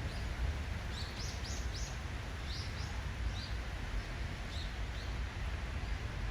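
Brown-eared bulbul giving short, high chirps: a quick run of them starting about a second in, then a few scattered calls. A steady low rumble of background noise sits under the calls.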